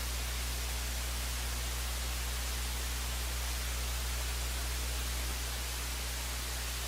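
Steady static hiss over a low hum, with no other sound: open-line noise on the broadcast audio feed.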